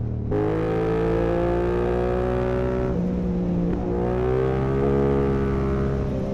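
A 2022 Yamaha R7's parallel-twin engine through an Akrapovic full exhaust, accelerating with its pitch climbing. About three seconds in the pitch drops at an upshift, then climbs again and eases off near the end.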